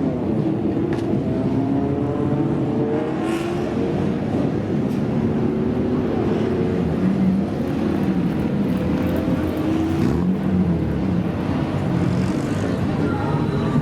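Modified old cars' exhausts (kaido racer style) revving, the engine pitch rising and falling again and again.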